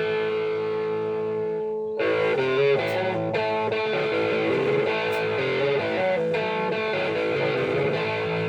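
Guitar playing: a chord rings out for about two seconds, then strummed chords and picked notes start again and carry on.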